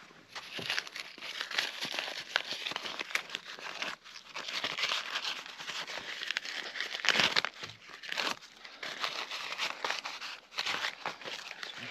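Crinkly material being crumpled and torn by hand: a dense, irregular rustling with many small crackles.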